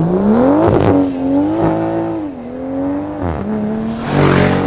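A car engine accelerating hard, its pitch climbing steeply for about a second, then holding and dropping back as the revs change, with a louder, noisier surge near the end.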